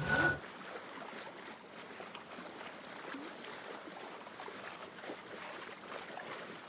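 Water washing along a sailboat's hull as a steady rushing noise. In the first half-second there is a short, loud sound that rises in pitch.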